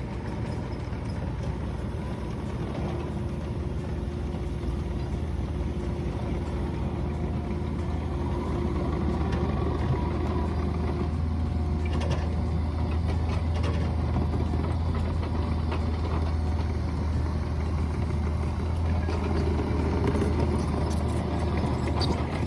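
Mini excavator's engine running steadily, getting a little louder partway through, with a few short knocks or clanks around the middle and near the end.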